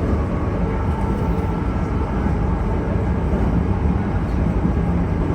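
Meitetsu 2200 series electric train running through the station at speed: a steady, fairly loud low rumble of wheels on rail and running gear.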